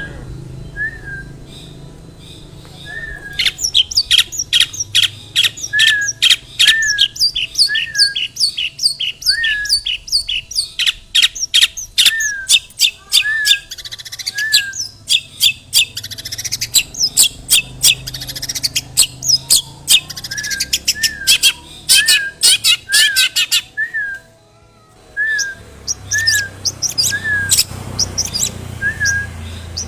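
Long-tailed shrike singing a busy mimicking song: runs of rapid harsh chattering notes mixed with high whistled phrases, over a short rising-and-falling call repeated about once a second. The song breaks off briefly about 24 seconds in.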